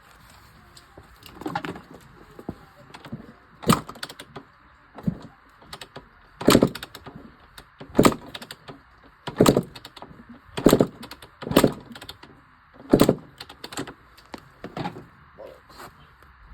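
Kawasaki KX100 two-stroke dirt bike being kick-started over and over: about ten kicks, each a short thump as the kickstarter is stamped through and the engine turns over. The engine never fires, so the bike won't start.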